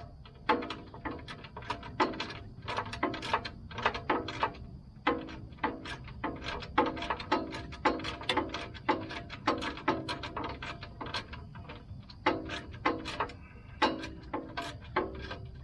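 A 1/4-inch drive ratchet with a 10 mm socket clicking in short, ringing strokes, about two a second, as it backs out a hard-to-reach bolt on the recoil starter cover.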